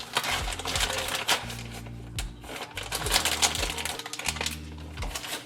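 Knife cutting a block of cheese on a cutting board: a quick run of tapping and clicking strokes, pausing briefly about four seconds in, over background music.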